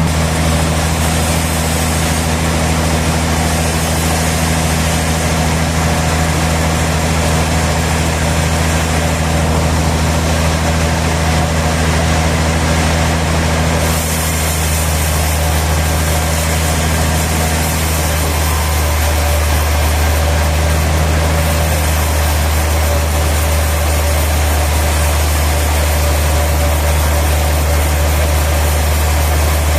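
Sawmill machinery running steadily with a loud, even, deep drone. About eighteen seconds in, part of the hum drops away and the pitch mix shifts slightly.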